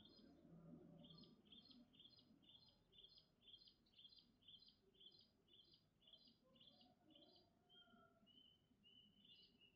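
Faint bird song: a run of about a dozen short, evenly spaced high notes, about two a second, then a few longer whistled notes and a falling whistle near the end, over a low background rumble.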